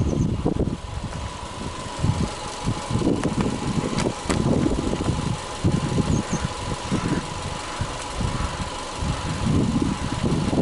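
Subaru Legacy B4 2.5i's EJ25 flat-four boxer engine idling steadily, heard at the open engine bay, with a faint steady whine over the rumble.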